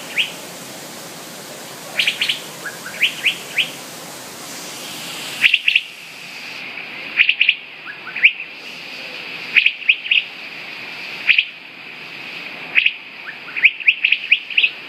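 A bird chirping: short, sharp, high chirps in quick runs of two to five, repeated every second or two.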